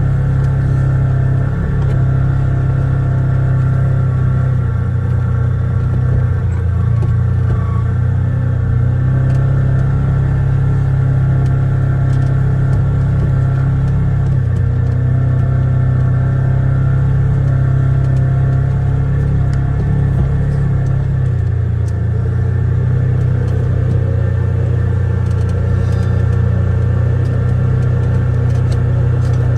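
Polaris Ranger Crew 1000 XP side-by-side under way, its twin-cylinder engine and drivetrain running at a steady pace as a loud, continuous low drone.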